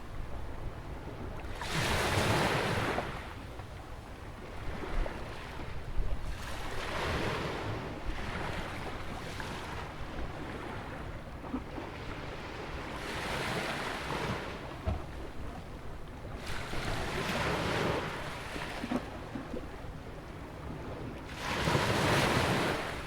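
Atlantic surf breaking and washing in beside a jetty on a sandy beach, swelling to a loud rush about every four to five seconds, five times here, the loudest about two seconds in and near the end. A low wind rumble on the microphone runs underneath.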